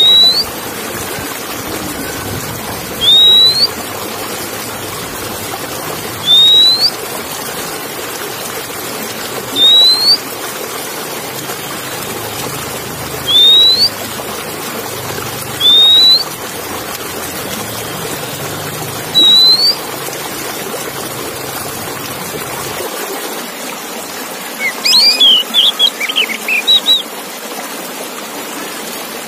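Oriental magpie-robin (kacer) whistling a short, loud rising note about every three seconds, seven times, then a quick burst of varied chirps near the end. Under it runs a steady hiss like running water.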